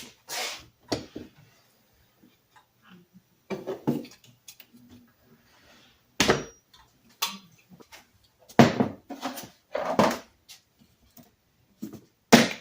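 Small metal parts of a disassembled push drill clinking and clattering as they are handled and set down, in a series of separate knocks with quiet gaps between.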